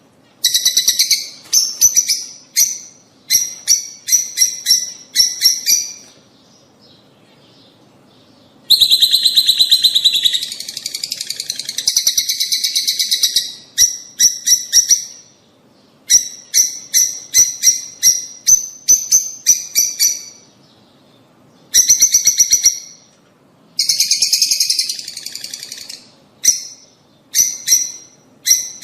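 Lovebirds chirping: runs of rapid, high, sharp chirps broken by short pauses, with longer stretches of dense chattering from about 9 to 15 seconds in and again around 24 seconds.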